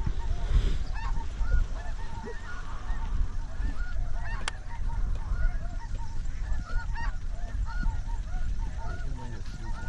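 A large flock of snow geese calling, many short high honks overlapping continuously, over a steady low rumble.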